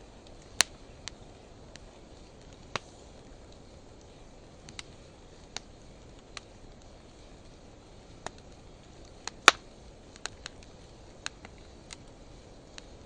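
Wood fire of driftwood and dry hardwood crackling: irregular sharp pops and snaps over a soft steady hiss, the loudest pop about two-thirds of the way through.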